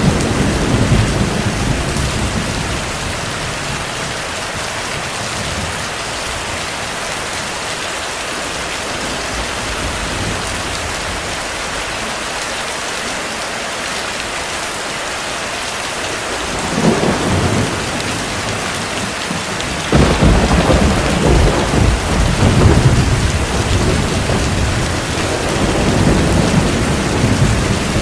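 Heavy rain falls steadily throughout, with rumbles of thunder. A rumble fades in the first few seconds and a short one swells about 17 seconds in. A sudden loud crack of thunder comes about 20 seconds in and rolls on, rumbling, until near the end.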